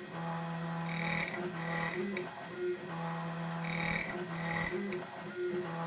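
ITL 9700A electronic key-cutting machine cutting a key blank. The motor hums steadily, and bursts of higher, brighter cutting noise come in pairs about every three seconds as the cutter works through the key's depths.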